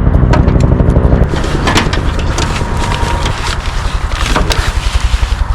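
A motor's steady low rumble, heaviest in the first second or so, with a few sharp clicks and knocks over it.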